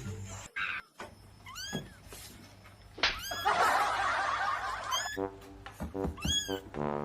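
Cat meowing in about four short calls, each rising and falling in pitch, over background music that comes in about five seconds in.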